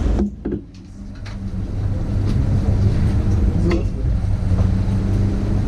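Dacia Logan race car's engine idling steadily, heard from inside the stripped cockpit; the sound drops away briefly about half a second in, then returns.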